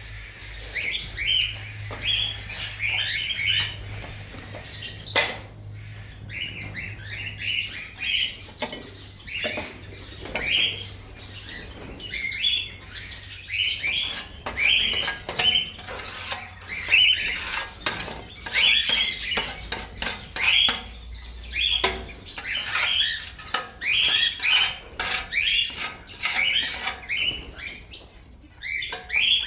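Parrots in an aviary chirping in short, repeated calls, with scattered sharp clicks and taps among them.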